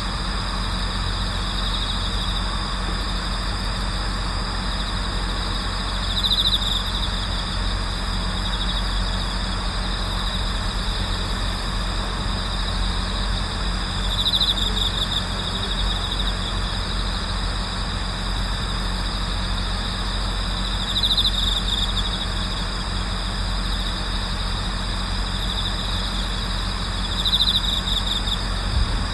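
Night chorus of autumn crickets, among them bell crickets, trilling steadily, with a louder trilling phrase of about a second roughly every seven seconds. A steady low hum runs underneath.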